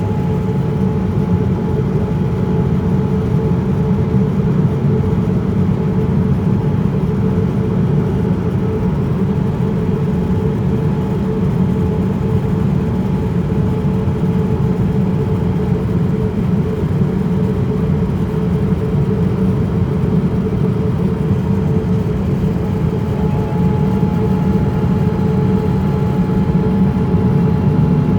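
Boeing 787-9 cabin noise in flight: a steady low rush of engine and airflow noise with an even hum running through it. A faint higher steady tone drops out about halfway through and comes back near the end.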